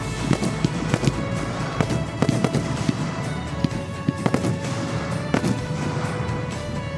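Fireworks display going off, many sharp bangs and crackling reports several a second, with music playing alongside.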